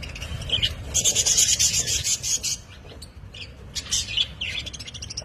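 Budgerigars chirping and chattering, with a dense, scratchy high-pitched burst of warbling about a second in that lasts over a second, then several short separate chirps.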